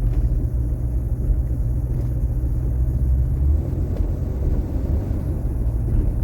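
1981 Cadillac Seville driving slowly, its engine and road noise a steady low rumble that shifts slightly about three and a half seconds in.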